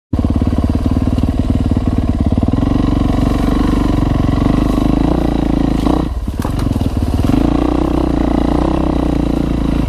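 Dirt bike engine running under throttle, its note easing off briefly about six seconds in and then picking back up.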